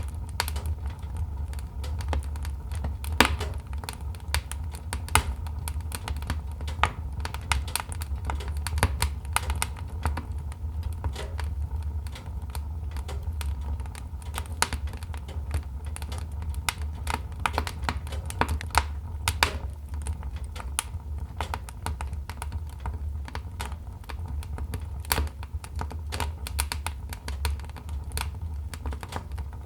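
Wood fire crackling: irregular sharp pops and snaps of varying strength over a steady low rumble.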